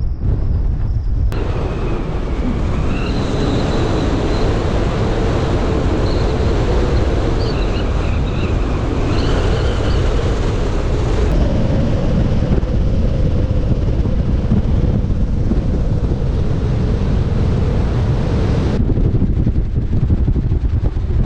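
Strong wind buffeting the microphone: a loud, continuous low rumbling rush. Faint wavering high whistles come through for a few seconds early on the crossing.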